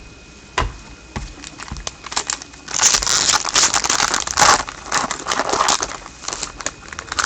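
A few light knocks, then plastic wrapping of a hockey card pack crinkling and tearing as it is opened, starting about a third of the way in.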